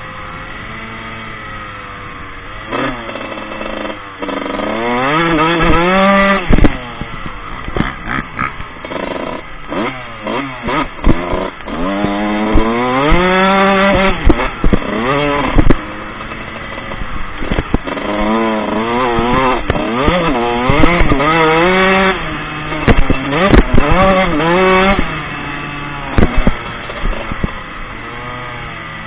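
Four-stroke motocross bike engine being ridden hard, revving up and dropping back again and again as the throttle opens and closes, with sharp knocks and wind thumps mixed in.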